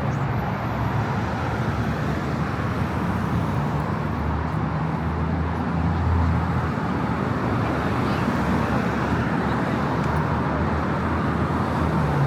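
Steady road traffic: cars passing on a busy city street, a continuous wash of tyre and engine noise, with a low engine hum swelling about five to seven seconds in.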